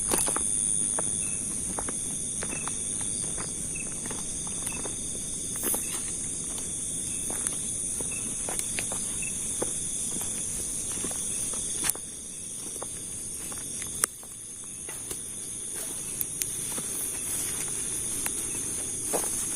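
Night chorus of crickets and other insects, a steady high trilling, over irregular footsteps and rustling and snapping in undergrowth. Two sharper clicks come near the middle.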